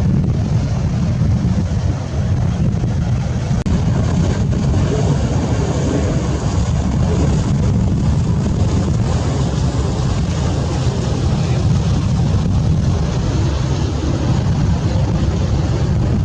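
Wind buffeting the microphone in a steady low rumble, over the running of a fishing boat's engine and the sea.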